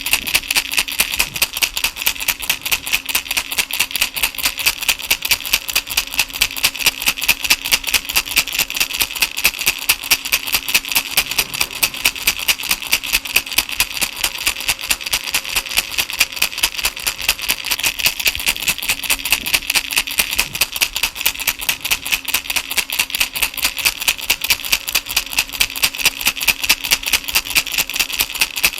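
Baby rattle shaken continuously in a rapid, even rhythm, several shakes a second, its beads rattling.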